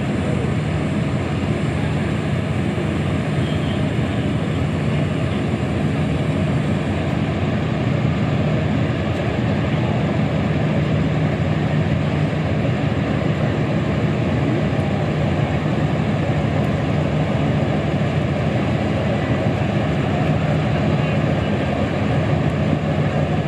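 A train running in at the station platform: a steady, even rumble with a low hum underneath, unchanging throughout.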